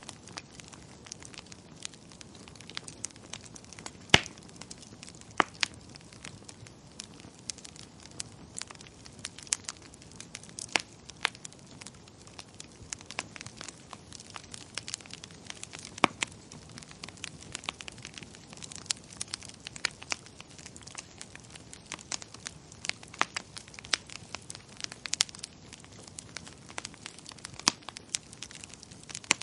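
Fireplace fire crackling: irregular sharp pops and snaps over a soft hiss, with a few louder pops, one about four seconds in and another around sixteen seconds.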